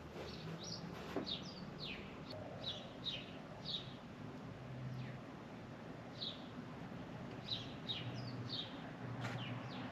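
Small birds chirping: a string of short, falling chirps, a few a second, over a faint low hum.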